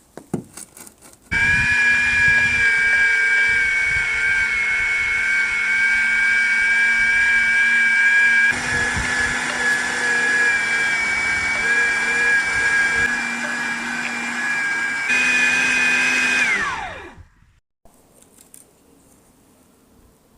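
A small electric kitchen appliance motor switched on after a few clicks and running steadily with a high whine for about fifteen seconds. It is then switched off, winding down with falling pitch to a stop.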